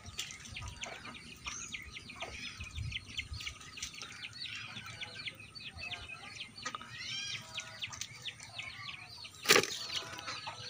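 Small birds chirping and twittering rapidly in a dense chorus of short, high notes, with a few longer arching calls about seven seconds in. A single sharp knock about nine and a half seconds in is the loudest sound.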